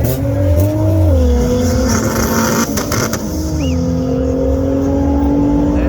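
Car engine running at steady, raised revs, its pitch dropping slightly about a second in and rising again a little past halfway.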